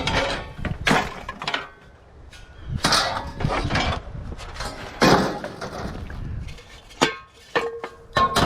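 Pieces of scrap metal clanking and clattering as they are handled and tossed onto a pile: several separate clatters a second or two apart, one leaving a brief ringing tone near the end.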